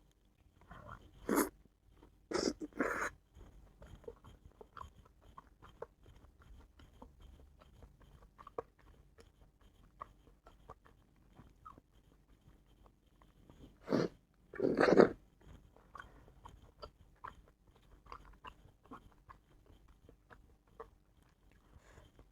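Close-miked eating sounds: a person chewing, with many small wet clicks throughout. A few louder bites or slurps come near the start and again about two-thirds of the way through.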